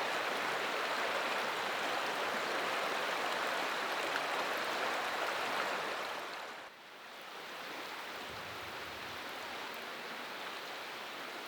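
Mountain river rushing steadily. The sound dips briefly about two-thirds of the way through and comes back a little quieter.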